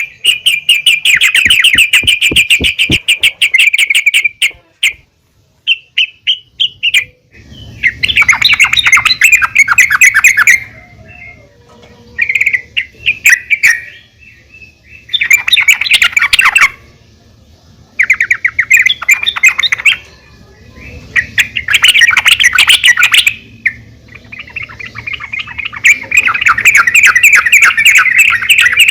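Female yellow-vented bulbul (trucukan) calling in repeated bouts of rapid, bubbly chatter, each lasting a few seconds with short pauses between. This is the call bird-keepers play to draw other bulbuls into song.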